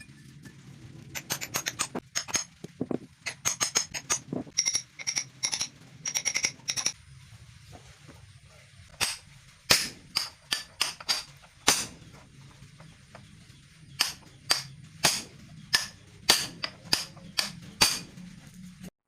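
Hammer blows on steel, each strike ringing briefly with a bright metallic tone. Quick clusters of blows come first, then slower single strikes about every half second. The sound cuts off abruptly near the end.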